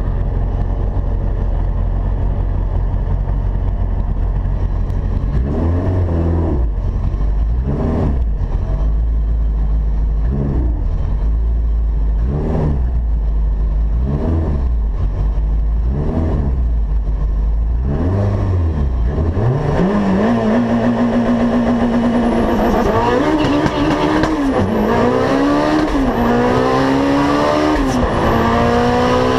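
Turbocharged Mitsubishi Evo 8 four-cylinder (2.0-litre, 6466 turbo, E85) heard inside the cabin, idling roughly with short throttle blips every couple of seconds while staging. It then builds and holds revs and pulls hard at full throttle, the pitch climbing and dropping back with each of about four quick upshifts near the end.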